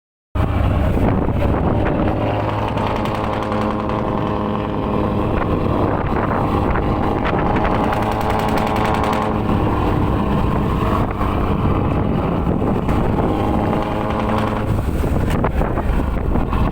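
A boat's engine running steadily, its note coming and going, under strong wind rumbling on the microphone.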